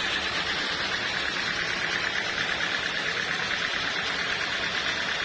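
Sawmill machinery running with a steady mechanical noise and a fast, even pulsing.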